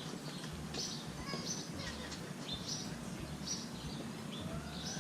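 A small bird chirping over and over, one short high call about every three quarters of a second.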